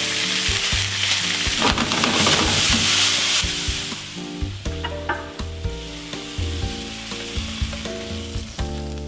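Grouper pieces and vegetables stir-frying in a hot pan: a loud sizzle with stirring and tossing, dying down after about four seconds, then a few light clinks as the food is slid onto a plate. Background music plays throughout.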